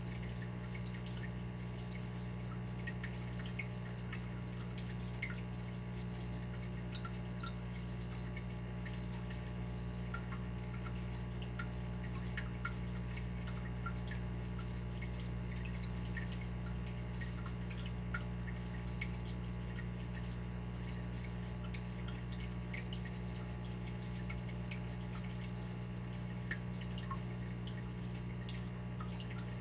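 Water dripping: many small, irregular drops plinking, over a steady low hum.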